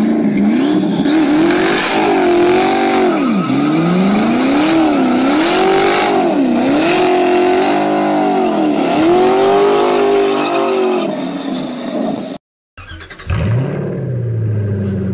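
Ford GT's V8 revving up and down again and again during a burnout, with tyres screeching under the smoke. After an abrupt cut near the end, another Ford GT's engine starts, rises briefly and settles into a steady idle.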